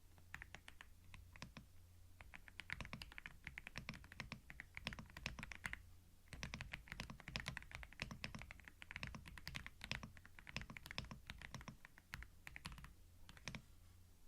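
Computer keyboard typing in quick runs of keystrokes, with short pauses about six and twelve seconds in, over a faint low steady hum.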